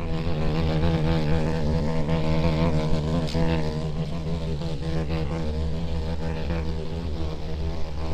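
A flying insect buzzing steadily, its wingbeat hum wavering slightly in pitch.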